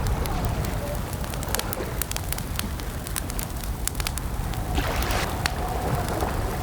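Campfire crackling, with frequent sharp pops and snaps over a steady low rumble of burning wood. A short hiss of flame rises about five seconds in, and a faint wavering whistle comes and goes in the background.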